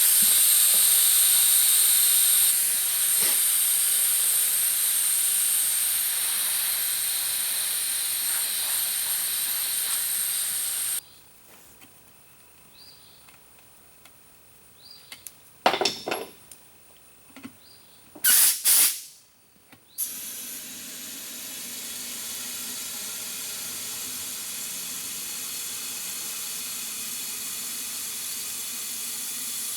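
Air hissing through the valve stem of a tire's inner tube as it is aired up or let down. The loud hiss cuts off sharply about eleven seconds in. After a few short blasts of air, a quieter steady hiss starts again.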